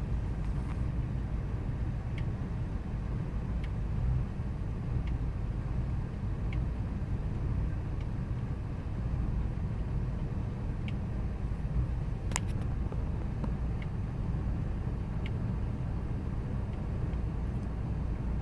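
2000 Ford Expedition's 5.4-litre V8 idling rough, a steady low running sound with a faint tick about every one and a half seconds and one sharper click about two-thirds of the way through.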